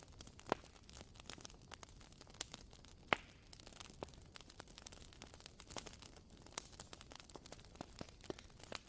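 Wooden wick of a WoodWick candle crackling as it burns, an irregular run of small sharp pops over a faint hiss, with one louder pop about three seconds in.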